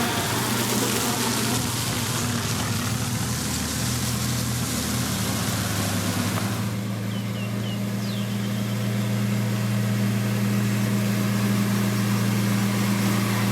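Diesel engine of a heavy road-construction machine running steadily, with a broad hiss over its hum that falls away about halfway through.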